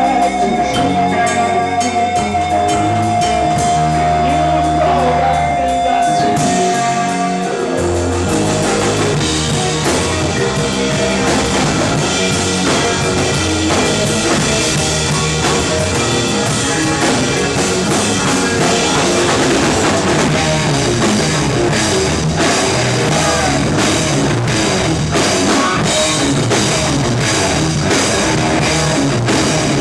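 Live rock band playing an instrumental passage on electric guitars, bass and drum kit. A single held guitar note rings over the first seven seconds or so, then the full band comes in thicker and busier.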